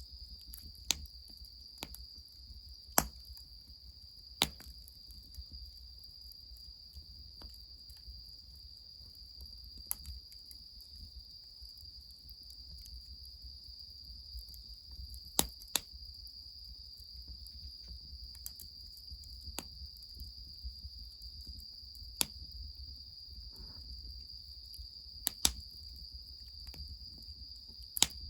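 Steady high-pitched chorus of crickets and other night insects, with a wood fire crackling: sharp single pops every few seconds, a close pair about fifteen seconds in and another near the end. A low steady rumble underlies it all.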